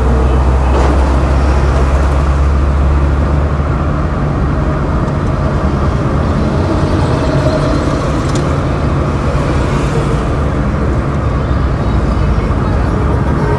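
Road traffic noise: a steady, continuous low engine rumble from motor vehicles, with no distinct horn or event standing out.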